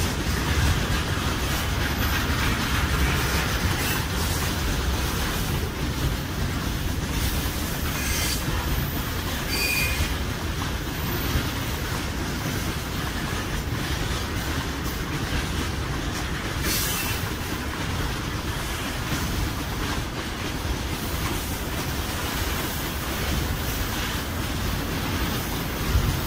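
Freight train of railway tank wagons rolling past: a steady rumble of steel wheels on rail, with a few sharp clicks from wheels crossing rail joints and a brief high wheel squeal about ten seconds in.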